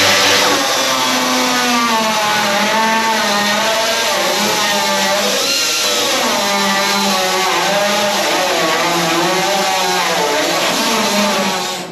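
Angle grinder cutting through steel, its motor pitch wavering up and down as the load on the wheel changes.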